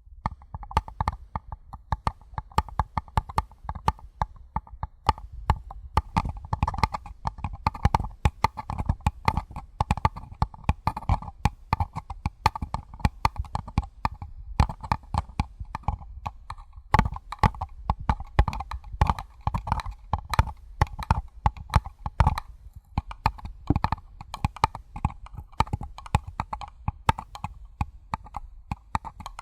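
Fingertips and nails tapping rapidly on a paper cup, a steady patter of several light taps a second, each with a short hollow ring.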